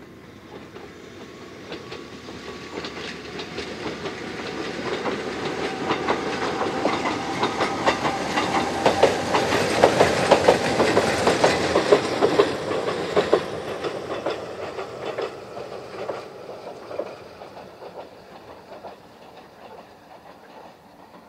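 Kōnan Railway 7000 series electric train (ex-Tokyu stainless-steel commuter car) passing by, its wheels clacking over the rail joints. The sound grows louder as it approaches, is loudest about halfway through with rapid sharp clacks, then fades as it runs away.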